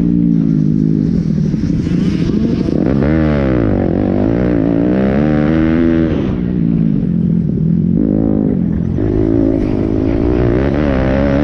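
Pit bike engine revving, its pitch climbing and dropping several times as the throttle is opened and closed.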